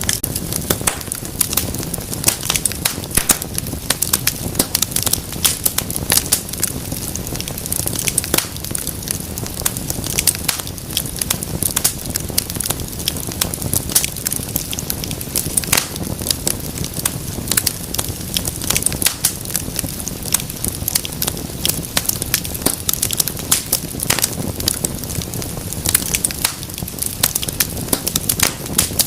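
Wood fire crackling steadily: irregular sharp snaps and pops over a low, even rumble of burning.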